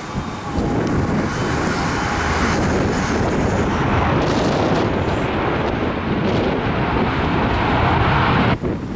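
Jet airliner engines running as the plane passes, mixed with strong wind buffeting the microphone; a thin high whine sits over the noise for the first few seconds. The sound drops away suddenly near the end.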